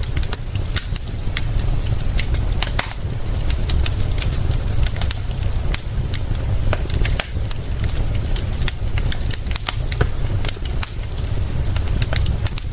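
Wood fire crackling, with many small sharp pops and snaps, over a steady hiss of rain and a constant low rumble.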